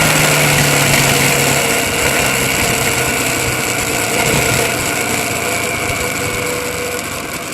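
A loud, steady engine noise with a constant whine in it, fading slightly and then cutting off abruptly near the end.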